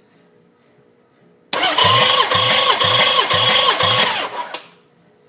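Starter motor cranking a Nissan VG30DE V6 for a compression test, without it firing. The whine dips at each compression stroke, about two a second, and stops after about three seconds.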